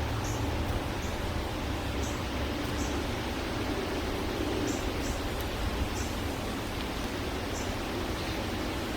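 Steady rushing outdoor background noise, with faint, short high chirps of small birds scattered through it, about eight in all at irregular intervals.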